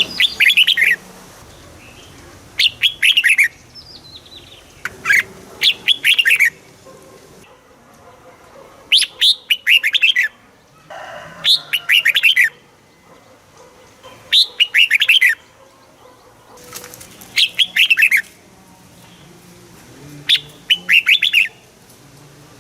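Red-whiskered bulbul singing: short, loud phrases of quick falling whistled notes, about eight phrases, one every two to three seconds.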